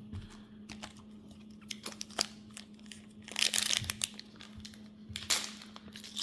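Pokémon booster pack foil wrapper and trading cards being handled: scattered light clicks, with short bursts of crinkling rustle about three and a half seconds in and again near five seconds. A faint steady hum runs underneath.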